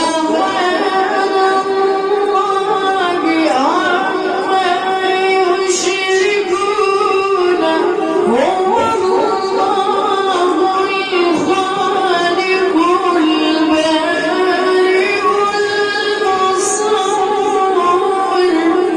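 A child's high voice reciting the Quran in melodic tajweed style, holding long notes with ornamented slides, each new phrase rising into its note.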